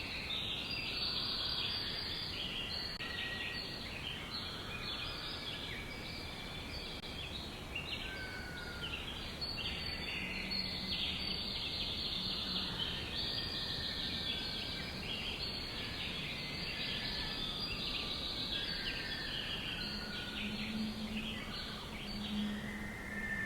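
A dense chorus of many small birds chirping, short overlapping calls without pause, with a few longer whistled notes among them, over a steady background hiss.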